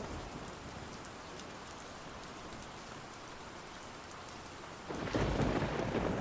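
Steady rain with scattered light ticks, and a low roll of thunder that swells in suddenly about five seconds in.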